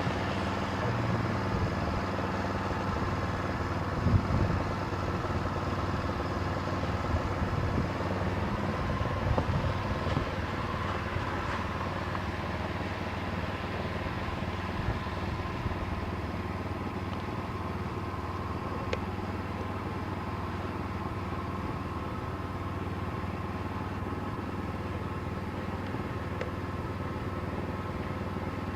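Snow blower's small engine running steadily, with a few knocks in the first half.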